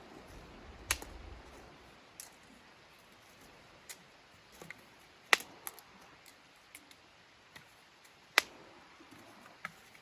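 About ten sharp clicks and snaps at irregular intervals over a faint steady background, the loudest two about five and eight seconds in, with a low rumble in the first second and a half.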